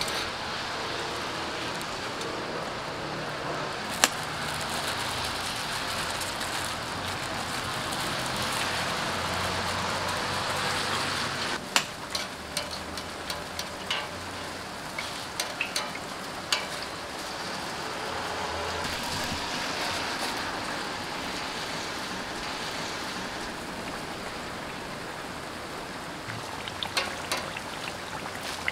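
Hotteok frying in oil on a hot griddle, a steady sizzle, with scattered sharp clicks and taps, several in a cluster about halfway through.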